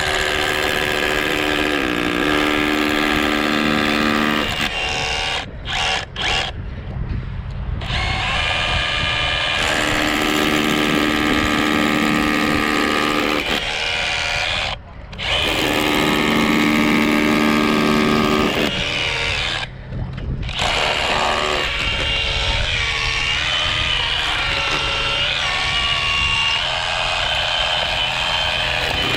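Handheld electric paddle mixer (a drill-type mortar mixer) running under load as it mixes a small batch of mortar. It runs in long stretches, stopping briefly three times, and its motor pitch wavers in the last part.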